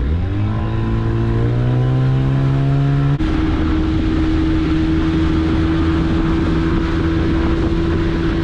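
A small fishing boat's engine is throttled up, its pitch rising sharply at the start, then runs steadily at speed under way. A little over three seconds in the engine note changes abruptly to a different steady pitch.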